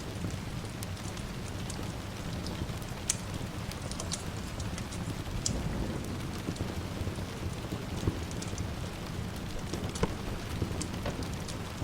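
Steady rain with a low rumble of distant thunder underneath and scattered sharp clicks.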